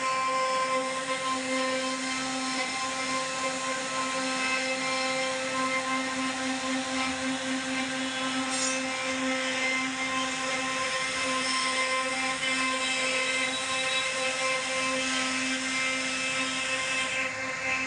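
CNC router spindle running at a steady pitch with a constant whine, its bit cutting wood with a continuous rushing hiss.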